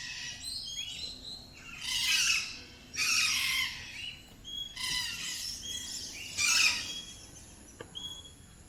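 A flock of parrots screeching in harsh bursts every second or two, with short rising chirps in between; they are making plenty of noise.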